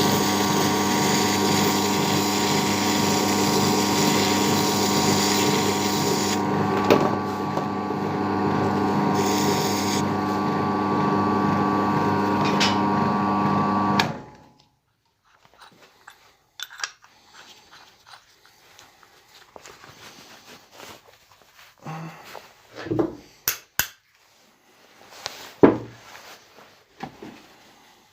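An electric power tool motor running steadily at constant speed, with a steady whine of several fixed pitches. It is switched off about fourteen seconds in and stops quickly. Afterwards come scattered light knocks and clicks of handling.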